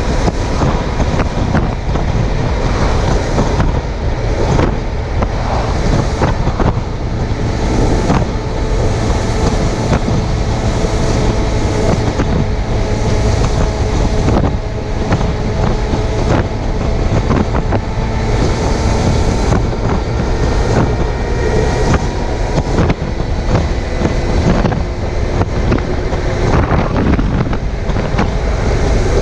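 Suzuki GSX750F's inline-four engine running at a steady cruise, its hum half buried under loud, gusting wind buffeting on a chest-mounted camera microphone.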